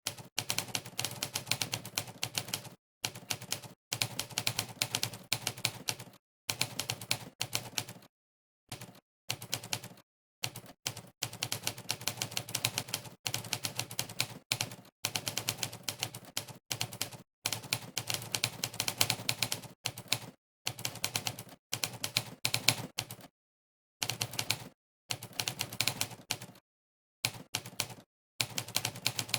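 Typewriter keystroke sound effect from the monkeytype typing test, one mechanical clack per key pressed during fast typing. It comes in quick runs of clacks broken by brief silent pauses.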